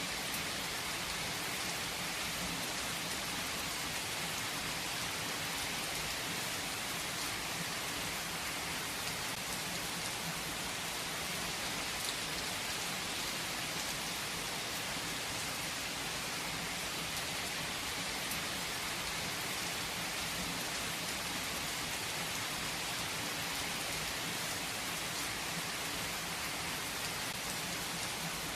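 Steady rainfall: an even hiss of rain falling on surfaces, with a few sharper individual drop ticks standing out.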